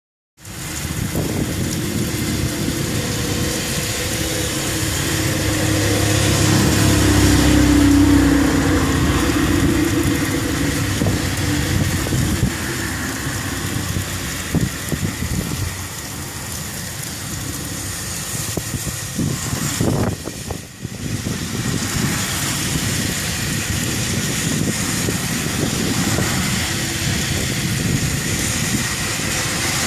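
Heavy rain falling steadily in a storm, with a low rumble that swells and fades between about five and ten seconds in.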